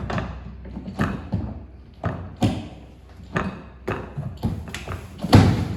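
Irregular mechanical clunks and knocks, about a dozen, from the floor-scrubbing machine being lowered onto its central brush, the loudest near the end.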